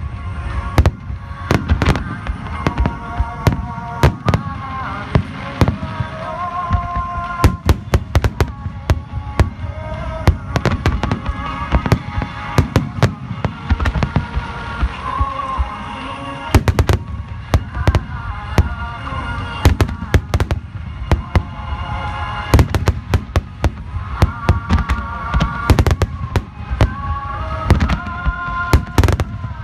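A massed fireworks display: many aerial shells bursting in quick, irregular succession, a dense barrage of loud bangs with deep booms, and music with a melody playing underneath.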